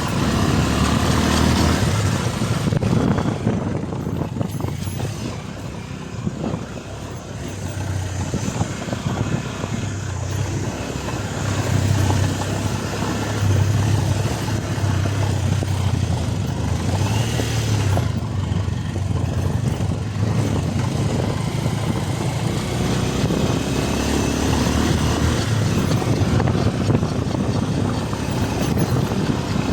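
Motorcycle engine running while riding, its low hum rising and falling, with wind and road noise.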